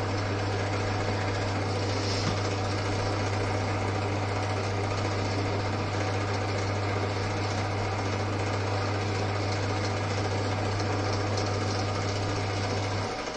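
Old Winfield metal lathe running steadily while turning a part, its electric motor giving a constant low hum over the rattle and hiss of the belt drive and cutting. The machine shuts off near the end.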